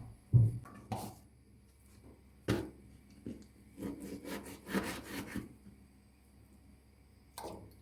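Kitchen work sounds: a heavy thump about half a second in, a few sharp knocks, and a quick run of short scraping, rubbing strokes in the middle.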